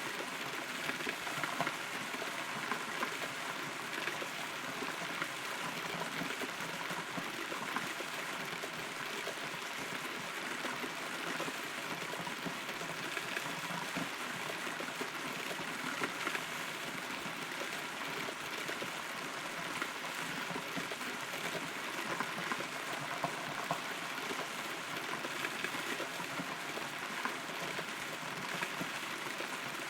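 Rain heard from inside a hollow rotten tree: a steady patter with many separate drops ticking close by on the wood.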